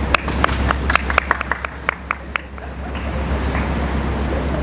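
A few people clapping: irregular hand claps that die away about two and a half seconds in, over the steady low drone of a boat's engine.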